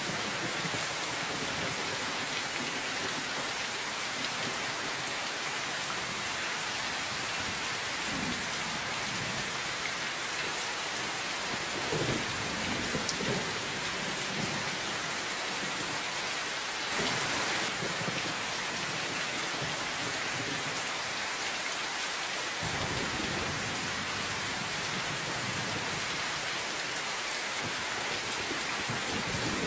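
Steady rain falling, with several low rumbles of thunder rising and fading, the strongest about twelve and seventeen seconds in.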